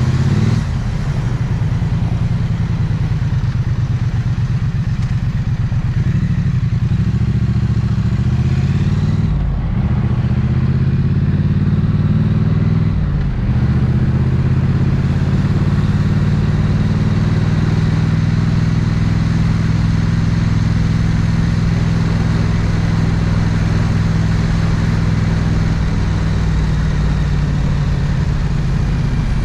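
Triumph 900cc parallel-twin motorcycle engine running steadily in slow traffic. Its pitch dips and shifts briefly twice, about a third of the way in and again a few seconds later, then holds even.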